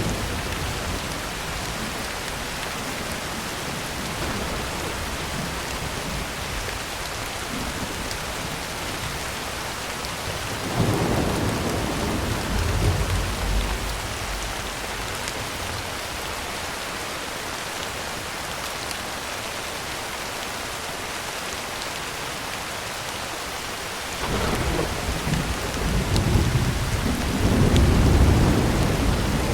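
Heavy rain drumming steadily on a tin roof, with two rolls of thunder: one low rumble about a third of the way in lasting a few seconds, and a longer, louder one building near the end.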